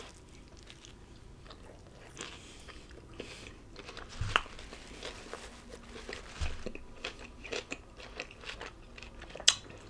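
Faint close-up biting and chewing of a homemade chicken gyro in a flour tortilla, filled with diced red onion, tomato and cucumber: scattered soft crunches and clicks, the strongest about four seconds in and again near the end.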